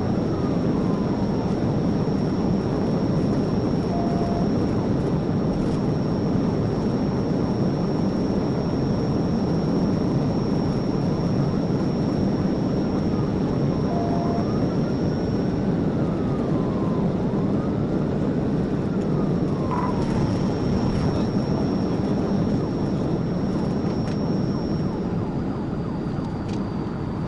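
Police cruiser driving at speed during a pursuit, heard from inside: steady engine, tyre and wind noise. A faint siren wail rises and falls a few times, and two short electronic beeps sound about ten seconds apart.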